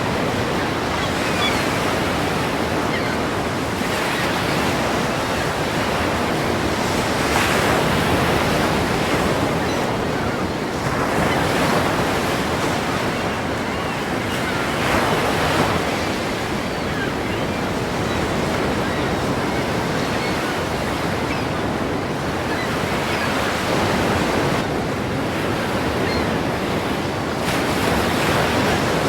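Ocean waves breaking: a continuous surf wash that swells into a louder crash every three to four seconds.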